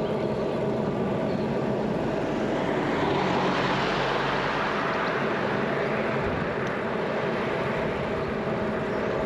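A motor vehicle passing; its noise swells to a peak about three to four seconds in and then fades, over a steady hum.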